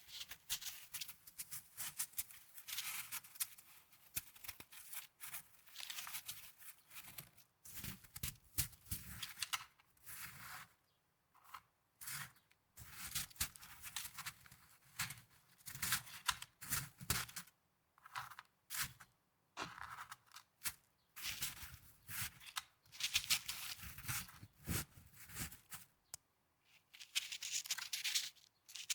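Snow crunching and crackling in repeated crisp bursts, one to a few seconds long, with short pauses between them.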